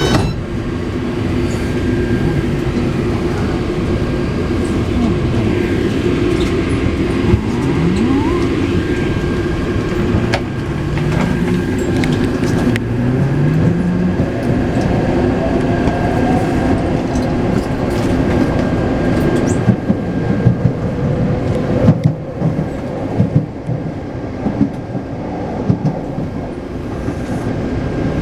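Taipei Metro C381 train running, heard from inside the car: the traction inverter and motors whine in a series of stepped rising tones as it picks up speed. Rail noise continues under it, with scattered wheel knocks and clacks in the latter part.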